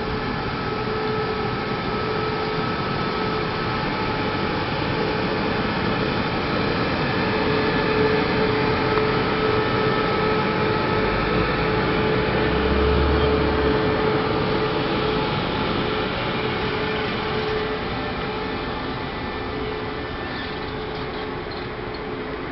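A train running through the station, a steady rail rumble with a faint constant hum. It swells a little towards the middle, and no horn is sounded.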